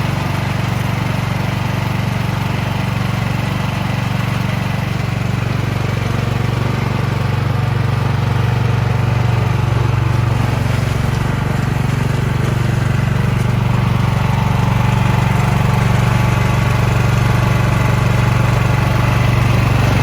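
Gasoline snow blower engine running steadily, growing a little louder over the second half.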